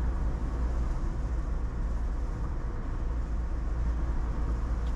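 Steady road noise heard inside a moving car's cabin: a constant low rumble of tyres and engine at road speed.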